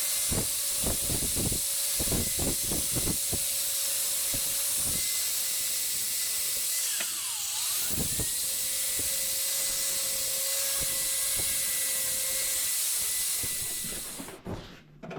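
A power grinder running steadily as it cleans up the cut edges of 2 mm steel sheet, with a brief dip in pitch about seven seconds in; it stops about 14 seconds in.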